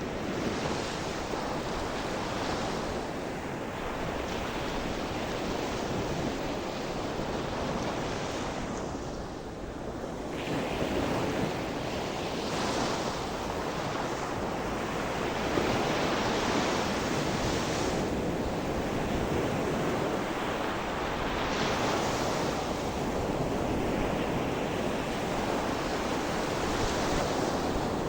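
Sea surf: gentle waves breaking and washing ashore in slow swells every few seconds, with a steady rush of water beneath.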